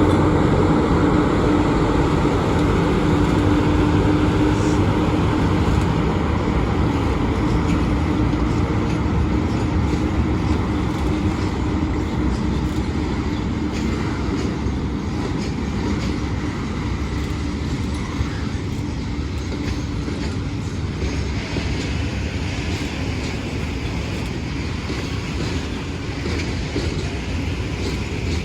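Train running by with a steady rumble of wheels on rail and a held tone at the start. The sound eases off slowly.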